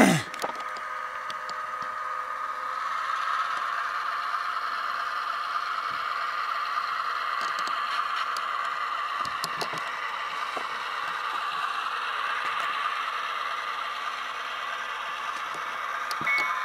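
Tsunami sound decoder in an Atlas GP38-2 model locomotive playing its diesel engine sound through the model's small speaker, a steady running sound with scattered light clicks and rattles. A pitched tone sounds right at the end.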